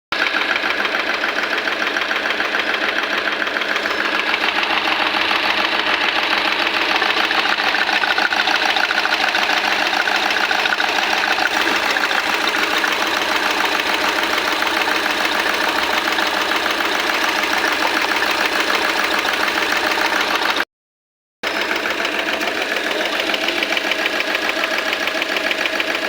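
Vehicle engine running steadily at idle with a fast, even clatter, a noise the owner takes for a sign of an engine fault. The sound cuts out completely for under a second about three quarters of the way through.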